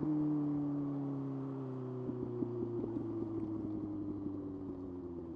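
Kawasaki ZX-6R's inline-four engine running under way, its revs easing slowly down. Light irregular crackles come in from about two seconds in.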